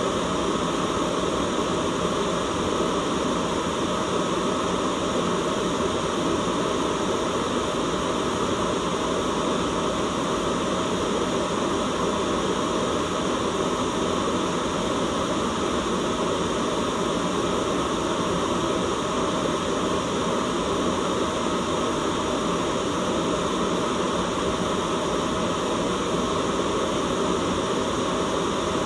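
Continuous white noise: an even, unchanging rushing hiss at a steady level, fuller in the lower range than in the treble.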